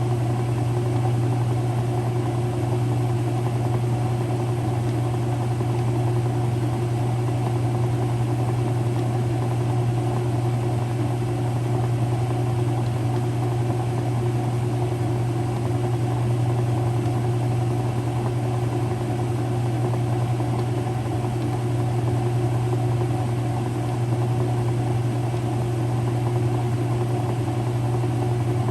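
Early-2000s Whirlpool direct-drive washer running with a steady, even hum.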